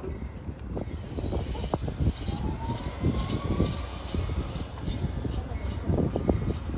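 Passenger train passing, its wheels clicking in a regular rhythm over the rails under a steady low rumble.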